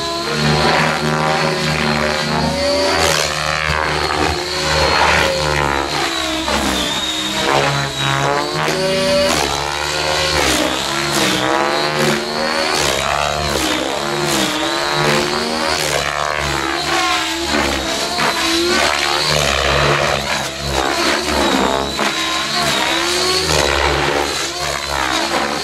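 Electric radio-controlled helicopter with an ALIGN 750MX brushless motor in flight: rotor and motor pitch swooping up and down again and again as it manoeuvres and passes by, over a steady high whine.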